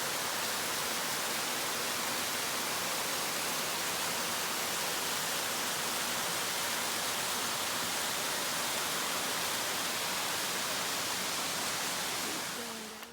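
Waterfall rushing, a steady, even roar of falling water that fades out near the end.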